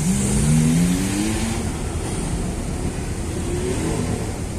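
Car engine accelerating, its pitch climbing twice: one long rise over the first second and a half, then a second, fainter rise near the end.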